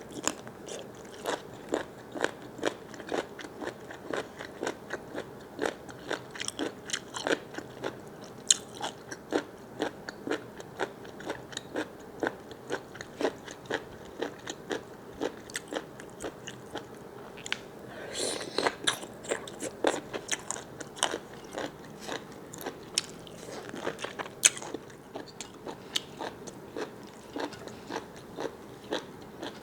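A person chewing food close to the microphone: steady wet, crunchy bites and mouth clicks about two to three a second, with a briefly noisier stretch a little past halfway.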